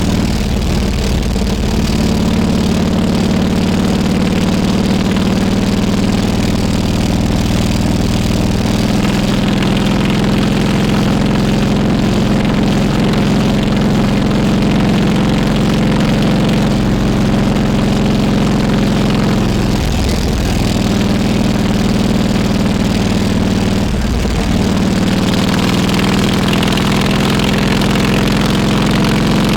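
Harley-Davidson Road King Classic's V-twin engine running at a steady pace, with two brief breaks in its note in the second half.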